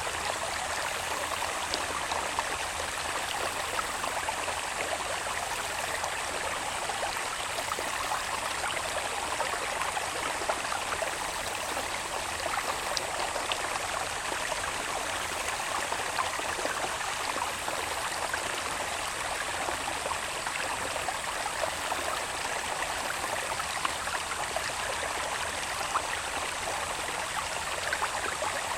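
Water babbling and trickling steadily in a small channel running from the hills into the fields, with a steady high-pitched insect trill above it.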